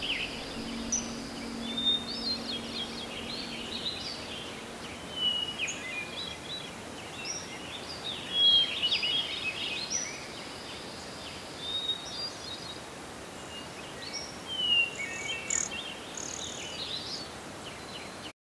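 Small birds chirping and twittering in quick, irregular short calls over a steady background hiss. A low steady hum fades out in the first few seconds, and the sound cuts off abruptly at the end.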